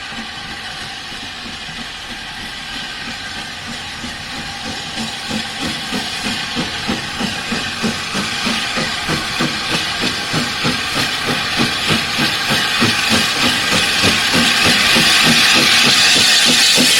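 Steam locomotive working a train and drawing closer: regular exhaust beats, about two a second, over a rising hiss of steam that grows louder toward the end.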